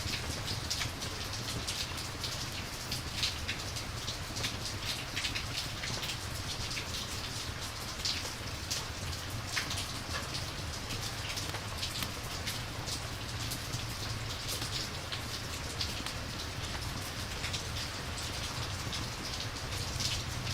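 Steady rain ambience: an even hiss of falling rain dotted with many small, sharp drop ticks, over a low steady rumble.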